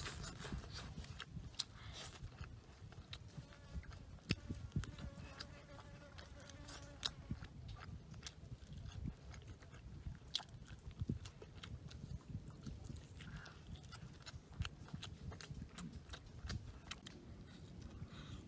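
Close mouth sounds of a person biting and chewing grilled fish off the bones: many small irregular clicks and crunches.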